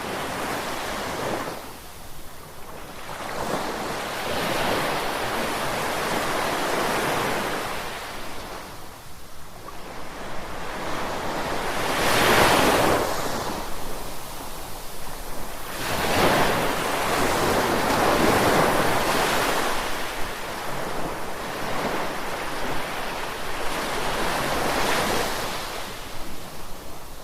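Ocean surf: waves breaking and washing in one after another, each surge swelling and fading over a few seconds. The loudest one comes about halfway through.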